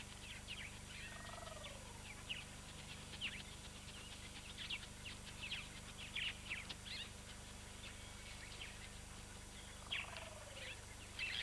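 Spur-winged plovers calling: scattered short, sharp high notes, faint, with two slower falling calls, one about a second in and one near the end.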